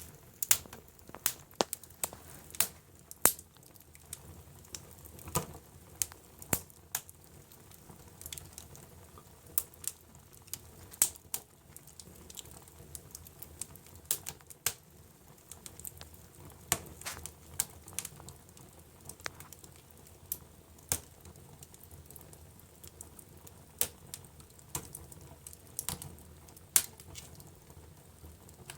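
Wood fire in a fireplace crackling: sharp, irregular pops and snaps, some much louder than others, over a soft steady hiss.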